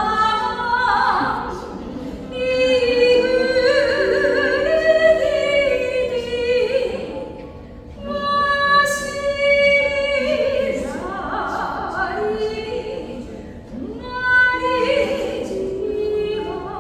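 Singing voice holding long notes with vibrato in phrases, over a lyre accompaniment.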